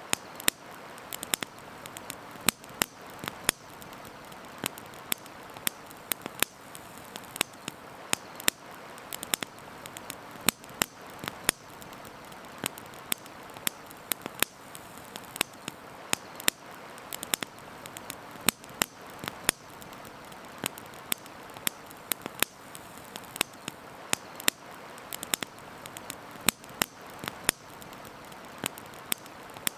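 Wood campfire crackling and popping: irregular sharp snaps, several a second, some much louder than others, over a steady soft hiss.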